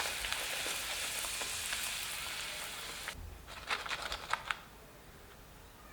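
Puri dough frying in hot oil: a steady crackling sizzle that stops abruptly about three seconds in, followed by a few light clicks.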